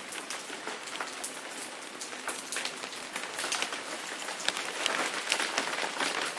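Steady rain falling, with many separate drop hits, getting somewhat louder over the second half.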